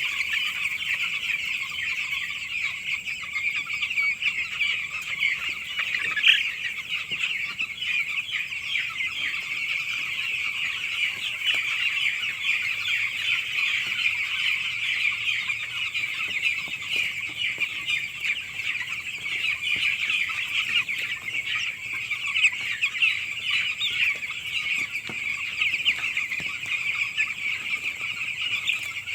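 A flock of nine-day-old chicks peeping all at once, a constant high-pitched cheeping with no break.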